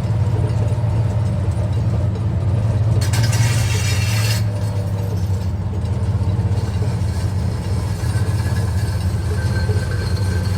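1965 Chevy C50 truck's 292 cubic inch inline-six running steadily under way, a low drone, with a burst of harsh noise lasting about a second and a half about three seconds in.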